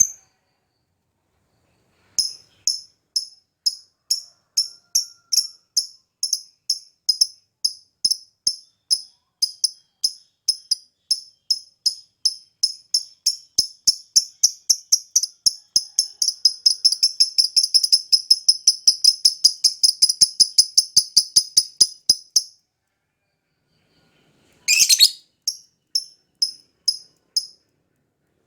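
Lovebird singing a long string of sharp, high chirps, about two a second, that quickens into a rapid continuous trill and then cuts off suddenly. A rising squeak and a few more chirps follow near the end.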